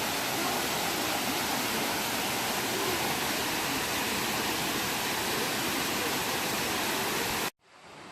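Waterfall rushing in a loud, steady roar of falling water. It cuts off abruptly about seven and a half seconds in, leaving a much quieter hiss.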